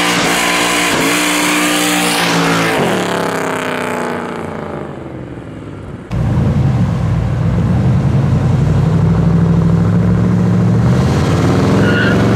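Twin-turbocharged 427 cubic-inch LS V8 of a Camaro revving hard as its rear tyres spin, the pitch rising and falling several times in the first seconds, then dropping in level as the car moves off. It comes back loud suddenly about halfway and runs steadily, rising again near the end, where the tyres begin to squeal.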